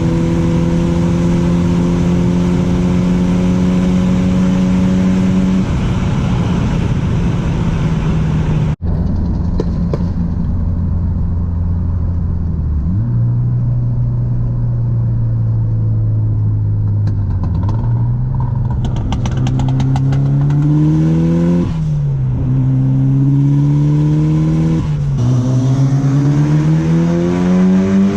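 Turbocharged car engine running at a steady speed, briefly cut off about nine seconds in, then pulling hard with rising revs and gear changes, the pitch dropping at each shift twice near the end.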